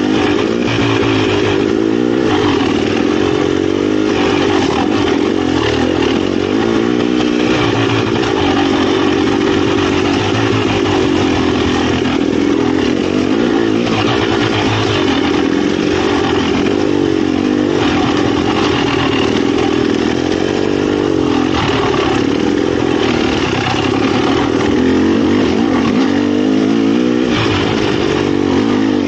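Dirt bike engine running hard, its pitch rising and falling continually as the throttle is opened and closed.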